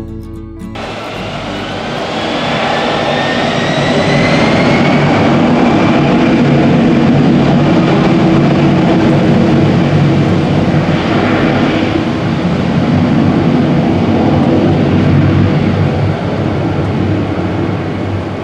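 Commercial jet airliner's engines at takeoff thrust, heard from close behind so the jet blast hits the beach. A rising whine builds into a loud, steady roar over the first few seconds, holds, and eases off near the end.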